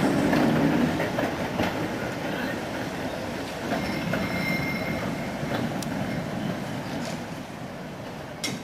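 Museum tram 765 running along its track: the wheels rumble, click over rail joints and squeal briefly about four seconds in. The sound fades steadily as the tram moves away, with one sharp click near the end.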